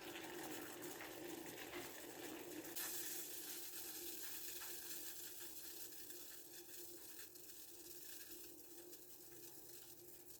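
Steady hiss of water heating and sizzling in a pan or kettle, with a steady low hum; it grows brighter about three seconds in, then slowly fades.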